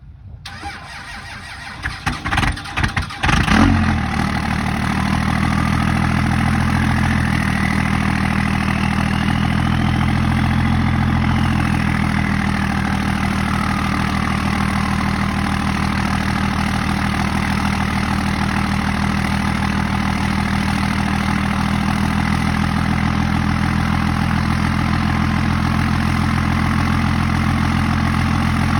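24-valve Cummins 5.9-litre inline-six turbo diesel started from cold: the starter cranks it for a second or two, it catches about three and a half seconds in, and it then settles into a steady idle.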